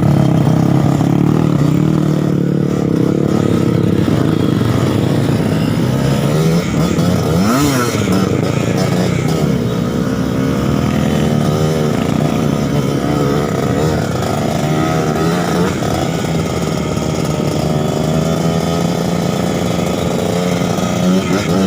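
Trail motorcycle engine running under varying throttle. The pitch wavers as the revs change, with one quick rev up and back down about seven seconds in.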